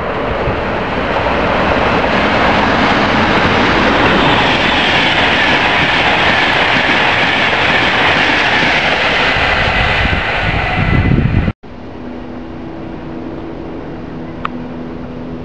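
A train passing close by: a loud, steady rumble of rail noise for about eleven seconds that cuts off suddenly, followed by a quieter steady hum with a few low tones.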